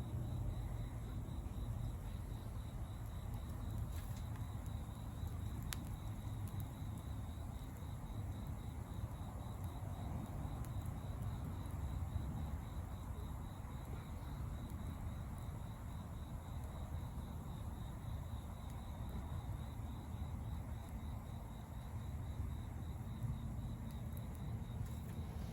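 An insect trilling steadily on one high, slightly pulsing note over a steady low rumble, with an occasional faint click.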